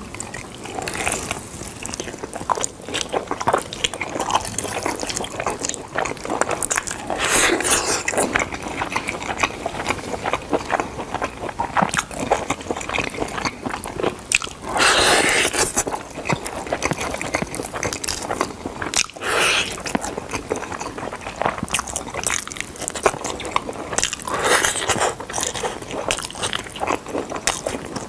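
Close-up eating sounds of smoked chicken: biting and chewing, with crackly mouth clicks throughout and several louder crunchy bites.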